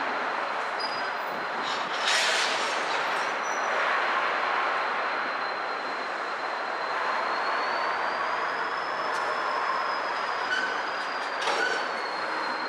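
Freight cars rolling slowly by with a thin, high, steady wheel squeal that rises in pitch partway through and settles back near the end. Sharp metallic clanks come from the cars about two seconds in and again near the end.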